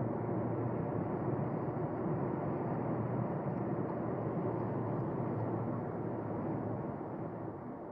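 Road and tyre noise on a wet road heard from inside the cabin of a Volkswagen Golf Sportsvan, with its 1.5 TSI engine no longer pulling, as the car coasts down after the acceleration run. The noise fades slowly near the end.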